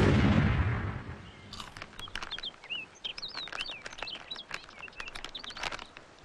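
A loud noise dies away in the first second, then birds chirp: many short, quick rising and falling calls, with a few light clicks.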